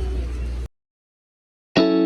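A low steady outdoor rumble with faint voices cuts off abruptly, followed by about a second of dead silence. Distorted electric guitar music then starts loudly near the end.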